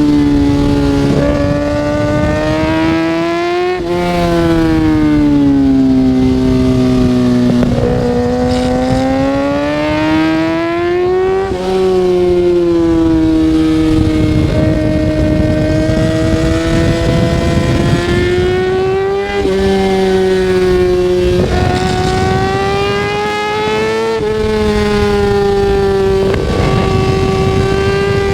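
Kawasaki ZX-6R 636's inline-four engine under way, its pitch climbing and easing in long sweeps, with sudden drops in pitch about four times as the throttle or gear changes. Wind rush runs underneath.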